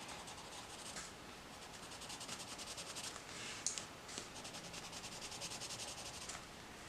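Colored pencil shading on paper: faint rapid back-and-forth scratching strokes of the lead rubbing over the page, with a couple of light ticks midway.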